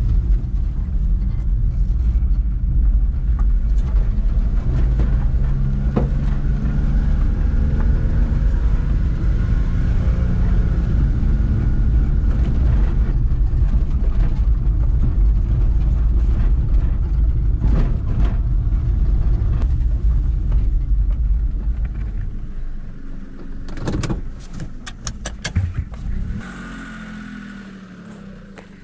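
A running engine: a steady low rumble whose pitch shifts a little, dying away about two-thirds of the way through, followed by a quick series of sharp clicks and knocks.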